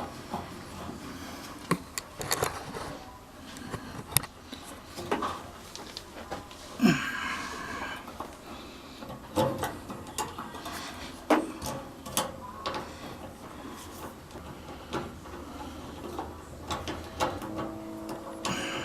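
Scattered clinks and knocks of hand tools and metal parts being handled while a gas water heater's burner and pilot assembly is put back together.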